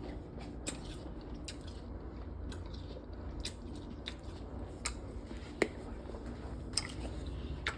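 Scattered small clicks and crackles of food and kitchen utensils being handled while cooking, irregular and a few seconds apart, the sharpest one a little past halfway, over a low steady hum.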